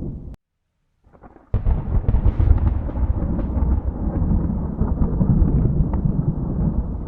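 Thunder rumbling, cut off abruptly to silence about a third of a second in. About a second later a new thunderclap breaks in sharply and rolls on as a deep, crackling rumble.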